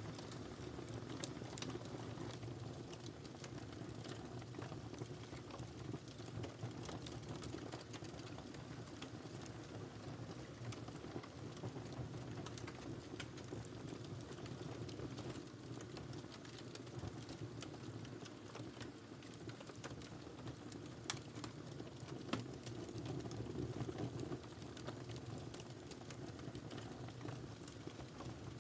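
Wood fire in a fireplace crackling, with irregular sharp pops over a steady low rush of the flames; a couple of louder pops come about three quarters of the way through.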